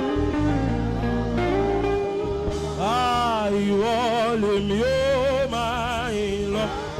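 Gospel saxophone playing a slow worship melody: a sweeping bend up and back down about three seconds in, then long held notes with wide vibrato, over sustained backing chords and bass.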